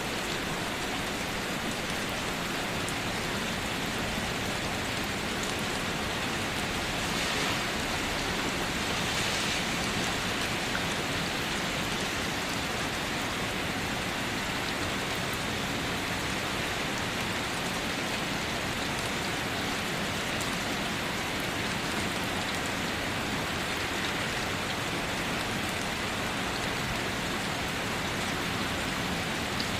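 Steady rain falling onto and around a waterfall, an even hiss of rain mixed with rushing water. It swells slightly for a few seconds about a quarter of the way in.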